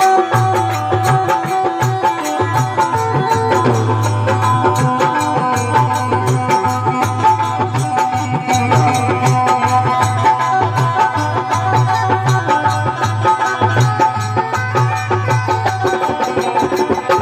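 Instrumental interlude of a devotional folk song (bhajan): a hand-drum beat with a low repeating pulse, steady held melody notes, and quick high percussive ticks.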